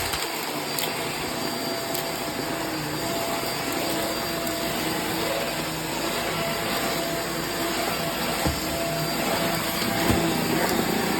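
Hoover React vacuum cleaner running steadily while vacuuming, its motor giving a constant hum and whine. There are a few small knocks in the last few seconds.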